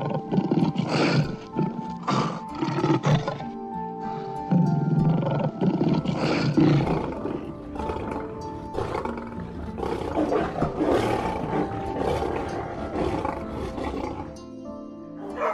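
A big cat roaring repeatedly, a series of loud calls one after another, over soft background music.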